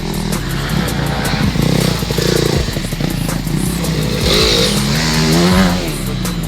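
Motocross bike engines running and revving, the pitch climbing and dropping repeatedly from about four seconds in.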